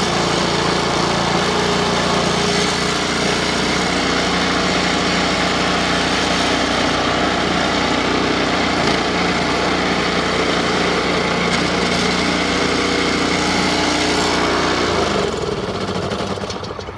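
Honda HS720 snowblower engine running steadily just after a cold start, its first start after months of storage. About fifteen seconds in it stops and winds down.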